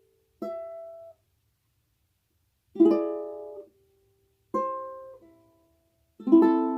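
Ukulele strummed four times, single chords a second or two apart, the first three cut short and the last left to ring: the barred chord shapes at the 5th and 4th frets, played the way the passage should ideally sound.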